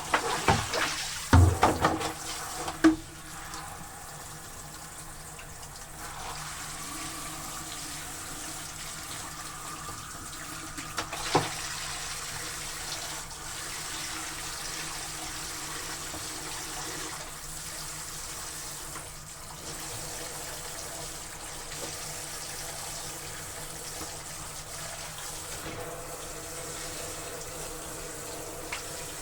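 Water running steadily from a tap, as when filling a basin or tub for hand laundry. A few sudden loud sounds cut in during the first three seconds, and one more about eleven seconds in.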